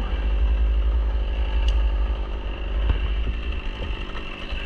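Small engine idling steadily, most likely the arborist's chainsaw, with a couple of sharp knocks.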